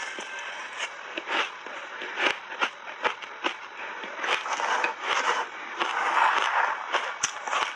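Close-up crunching and chewing of shaved ice coated in milk powder: irregular sharp cracks over a steady gritty crunch, densest and loudest a little past the middle.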